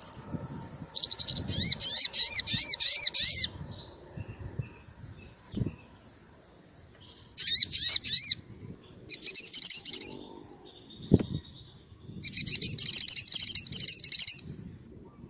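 Sogon sunbird singing in four bursts of fast, high-pitched, scratchy trills made of rapid up-and-down sweeps, with short pauses and a few single sharp notes between them.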